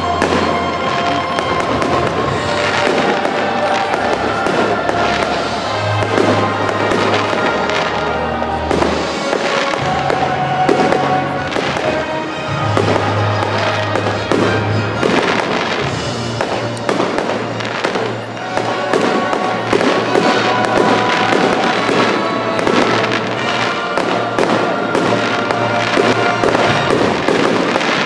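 Fireworks display: many bangs and crackles of shells bursting overhead, with music playing throughout.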